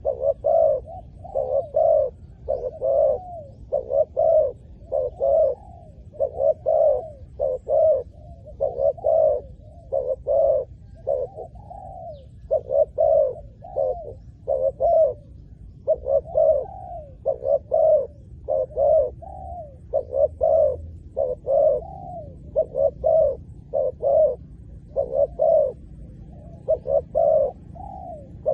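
Spotted dove cooing over and over: a long run of low, repeated coos in phrases with short breaks between them.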